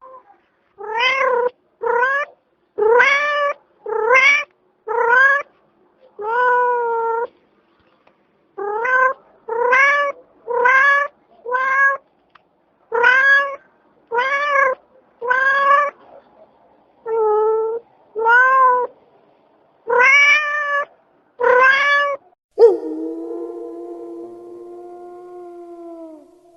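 A domestic cat meowing over and over: about seventeen short meows, each rising then falling in pitch. Near the end a different sound starts sharply, a long steady tone that slowly fades away.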